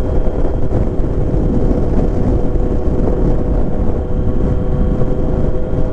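Riding noise from a 2023 Kawasaki Z900: its inline-four engine running at a steady speed under a thick rush of wind and road noise, with no change in pitch.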